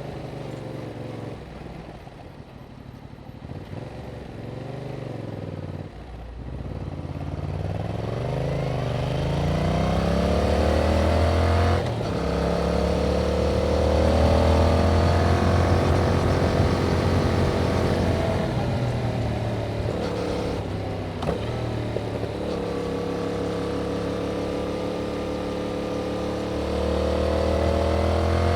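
Yamaha MT-07's parallel-twin engine through its stock exhaust, pulling hard, rising and falling in pitch as the rider accelerates, shifts gears and rolls off the throttle. The revs fall early on, climb steeply about a third of the way in, and hold steadier before rising again near the end.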